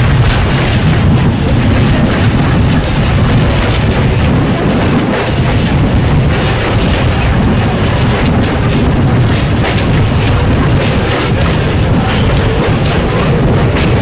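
Passenger train coach rolling along at speed, a steady loud rumble of wheels on the rails with occasional clicks, heard from the coach's open side with wind rushing past the microphone.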